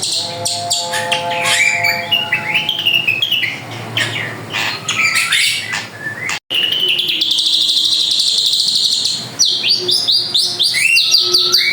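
Drongo singing hard: a fast, varied run of sharp chirps, sweeping whistles and rapid rattling trills, broken once by a sudden drop-out about six and a half seconds in.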